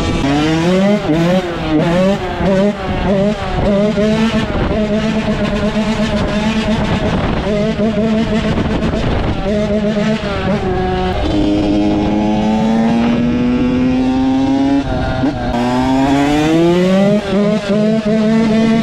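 Dirt bike engine revving. For about the first half the throttle is blipped in quick ups and downs; then come two long pulls in which the pitch climbs steadily, dropping once in between.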